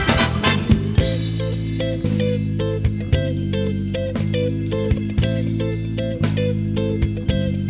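Acid-jazz band music: a dense full-band passage gives way about a second in to a groove of bass, drums and guitar, with a short note repeated evenly over steady low notes.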